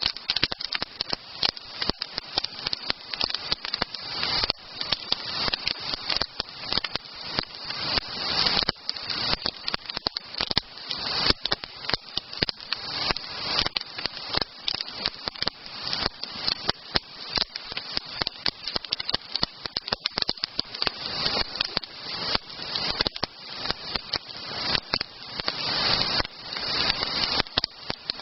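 Wood campfire burning, with many irregular crackles and pops from the burning logs over a steady hiss.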